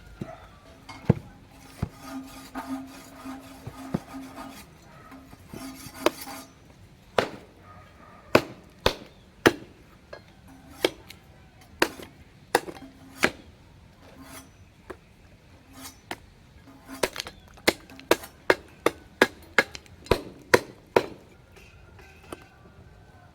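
Irregular series of sharp knocks, a couple of dozen strikes, some in quick runs of several and others spaced a second or so apart.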